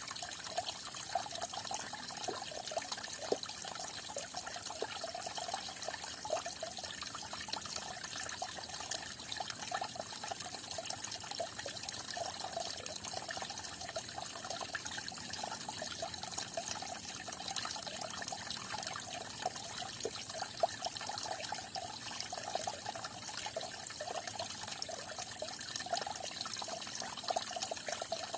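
Small stream of water falling and splashing steadily, with a constant trickling patter.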